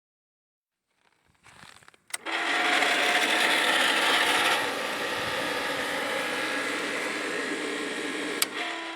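VAZ-2108 car heater fan, fitted for forced cooling of the engine, switched on with a click and running with a steady electric whir, a little quieter from about halfway. Near the end it clicks off and spins down, its pitch falling.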